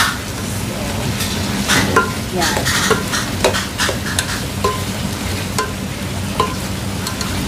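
Shrimp and cauliflower sizzling in a pan with garlic and onion while a utensil stirs them, giving short, irregular scrapes and taps against the pan over a steady sizzle.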